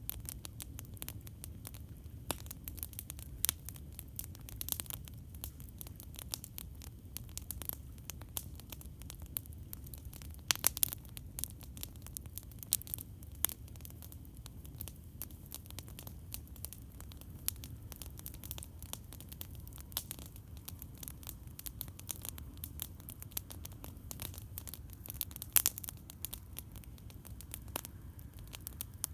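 Wood campfire crackling: frequent sharp pops and snaps, a few louder ones about ten seconds in and near the end, over a steady low rumble.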